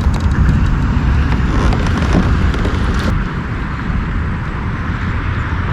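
Wind buffeting the microphone: a steady low rumble that eases slightly after about three seconds.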